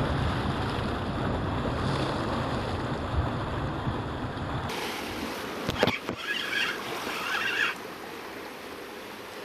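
Wind on the microphone over the wash of sea against rocks. About halfway through, this cuts off abruptly to a quieter stretch with a few sharp clicks.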